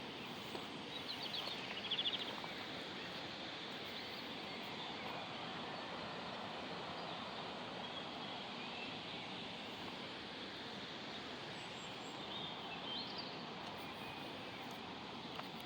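Outdoor ambience: a steady, even rush of noise with a small bird's quick trills about a second in and again late on.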